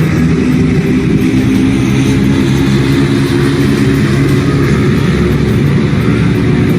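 Motor vehicle engine running steadily at low revs, its pitch wavering slightly, over a steady hiss of noise.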